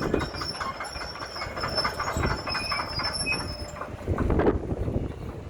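Tram running on street rails, with a high wheel squeal and clattering over the track; the squeal stops about four seconds in.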